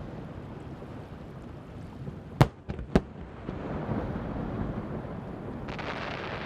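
Fireworks shells bursting over the sea: a continuous rumble of distant bursts, with two sharp bangs about half a second apart a little over two seconds in, and a hissing rush rising near the end.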